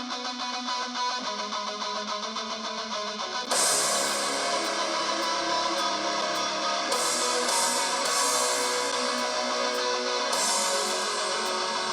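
Guitar-led music playing through a small Xiaomi Mi Portable Bluetooth speaker. A guitar intro builds into a fuller, louder band sound about three and a half seconds in.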